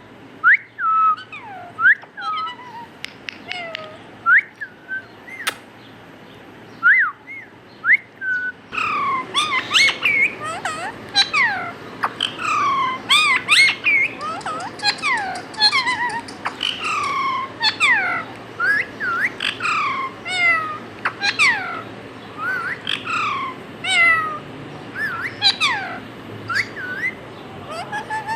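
Parrot whistling short calls that glide up and down in pitch, spaced out at first. About nine seconds in, a dense run of many overlapping falling chirps and whistles begins over a louder background hiss.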